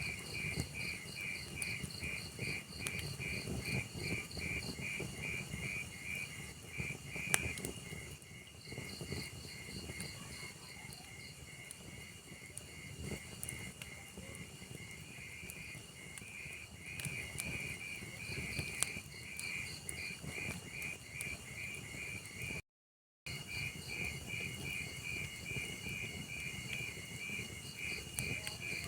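Crickets chirping in a steady, rapid rhythm over a crackling log fire with scattered pops. The sound drops out completely for about half a second near the end.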